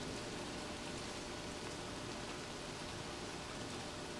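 Steady rain falling during a thunderstorm, an even, unbroken patter with no thunder in these seconds.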